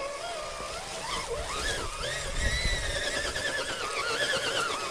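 Electric motor and gear drive of an RC rock crawler whining, the pitch rising and falling as the throttle is worked, with a low rumble about midway.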